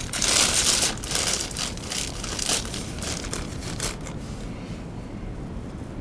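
Crinkling, crackling rustles of dry material being handled for about four seconds, then fading to a steady low rumble.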